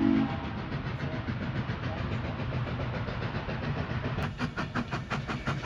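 Durango & Silverton narrow-gauge steam locomotive running, a rumbling mechanical sound. About four seconds in it turns into a sharp, even rhythm of about five beats a second.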